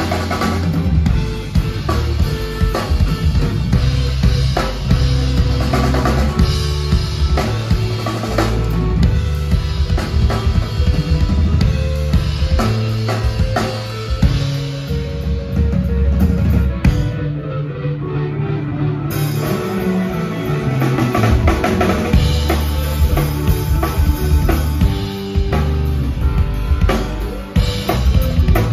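Rock band playing an instrumental passage on drum kit, bass, electric guitar and keyboards. Partway through, the cymbals and high end drop away for a few seconds, then a descending bass run brings the full band back in.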